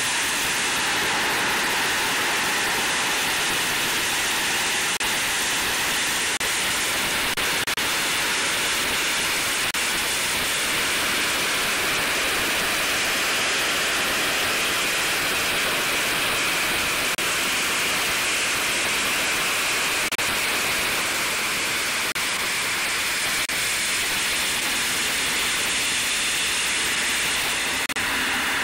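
Geothermal steam well vented through an opened pipe: high-pressure natural steam jetting into the air with a loud, steady hiss that holds without letting up.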